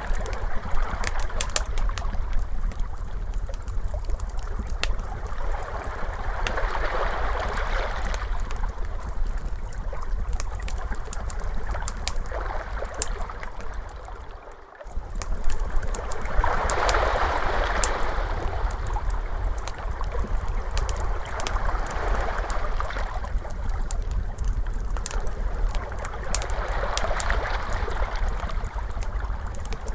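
Ocean waves washing in, swelling and ebbing every four to five seconds, mixed with the pops and crackles of a wood fire. About halfway through the sound dips out briefly and comes back.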